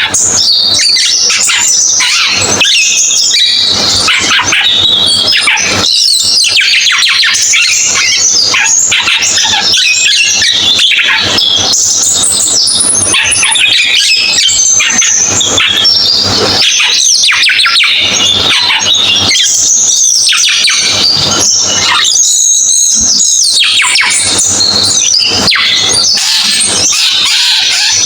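Cucak keling songbird singing loudly in a continuous, busy chatter of quick whistles and chips, with only brief pauses.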